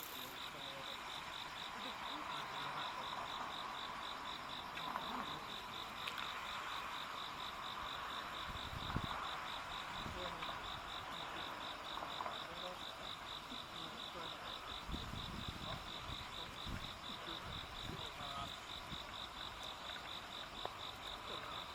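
An insect chirping in an even high-pitched pulse, about two or three chirps a second, over a steady hiss of other insects. A few faint low knocks come through at times.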